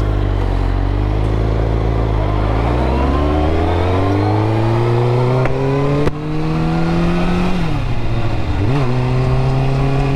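Motorcycle engine accelerating: the pitch climbs steadily for about five seconds, drops sharply about seven and a half seconds in as the bike shifts up a gear, then holds steady.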